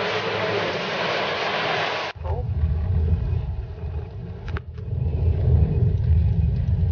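Heavy rain hissing steadily. About two seconds in it cuts off suddenly, giving way to the low rumble of a car on the road.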